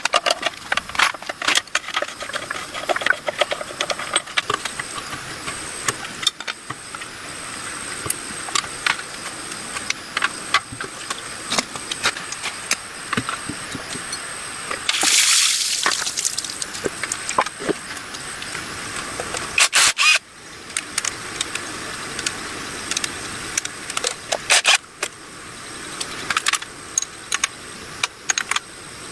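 Hand-tool work on a small motorcycle engine's metal parts: many sharp clicks and knocks at an uneven pace, with a loud hiss lasting about a second roughly halfway through.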